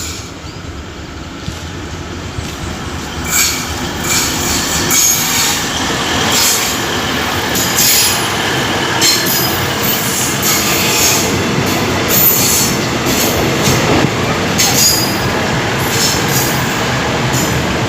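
A train passing close by on the rails, its noise building over the first few seconds and then staying loud. Repeated knocks of the wheels run through it, with some high wheel squeal.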